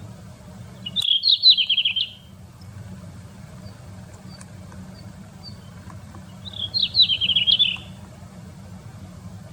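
Red-flanked bluetail singing two short phrases, each a quick rising note that tumbles down through a run of fast, descending notes. The phrases come about five seconds apart, over a steady low background rumble.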